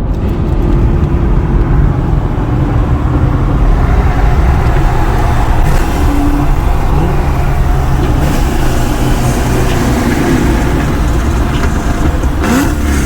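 Car engine pulling hard at speed with heavy road and wind noise during a street race, getting louder about a second in and staying loud.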